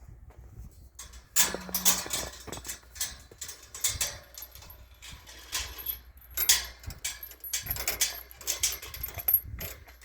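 Footsteps crunching through fresh snow at a walking pace, an irregular run of crisp crunches.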